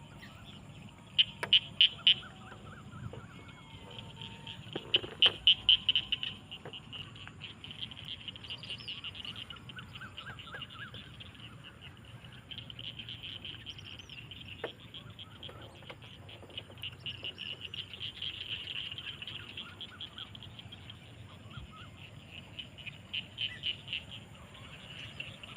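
Evening chorus of frogs and insects trilling steadily, with louder bursts of rapid pulsed calls about a second in, around five seconds in, and again near the end.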